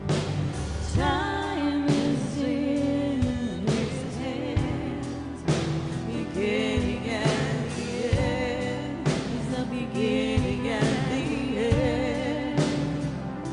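Worship music: a band playing with sung vocals over sustained chords and occasional drum hits.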